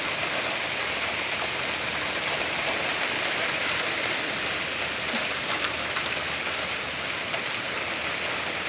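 Heavy rain pouring down, a steady, even hiss with occasional sharper drop ticks.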